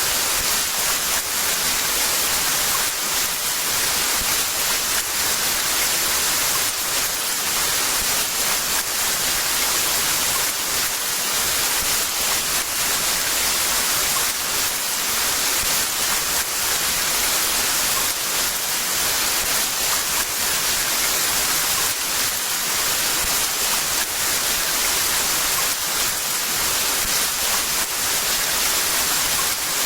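Heavy rain falling steadily: a dense, even hiss of downpour with faint patter of individual drops, without a break.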